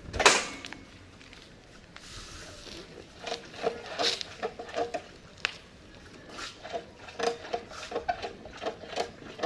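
A motorcycle comes down off its main stand with one loud thump, then its front telescopic forks are pushed down and released several times, giving an irregular run of short squeaks and clicks as the fork oil circulates.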